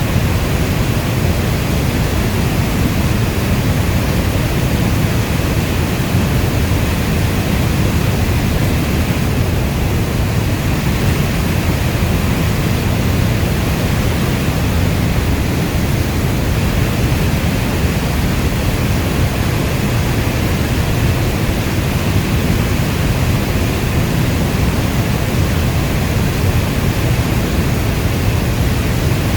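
Steady heavy rainfall: a dense, even rush with most of its weight in the low end, in the manner of brown noise.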